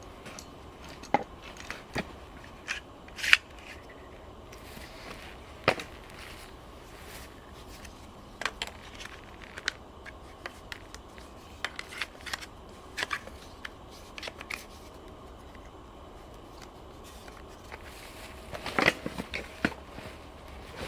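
Scattered sharp clicks and snaps at irregular intervals, with a quick cluster of them near the end.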